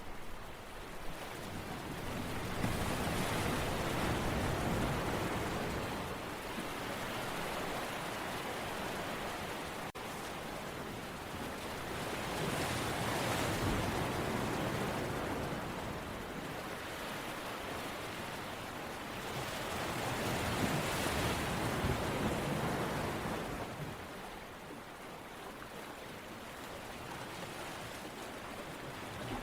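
Ocean waves breaking and washing ashore, each wave swelling and fading over about eight seconds, three times.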